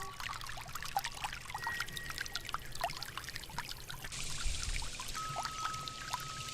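Water trickling and dripping, heard as a quick, irregular patter of small plinks.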